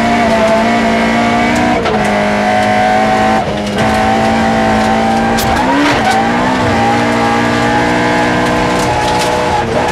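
Toyota Starlet rally car's engine running hard at high revs, heard from inside the cabin, with gear changes about two seconds in and near the end, a brief lift around three and a half seconds, and a dip and pick-up around six seconds. A few sharp ticks sound over the engine.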